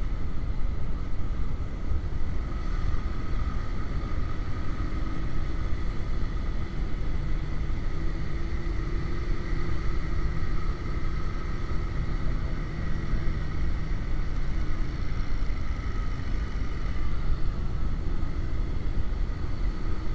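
Motorcycle riding at a steady speed: a constant engine drone under a heavy low rumble of wind on the microphone, cutting off suddenly at the end.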